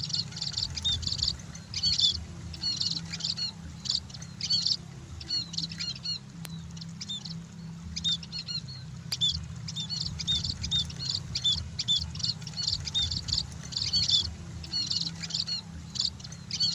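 Munias (emprit) chirping: a steady stream of short, high chirps, several a second and overlapping, as from a few birds together.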